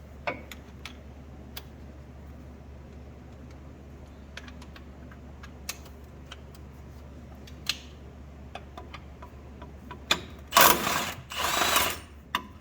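Handheld power tool with an 18 mm socket running in two short bursts near the end, spinning out the bolt that holds the RZR's primary clutch. Before that come light clicks and clinks of sockets and tools being handled.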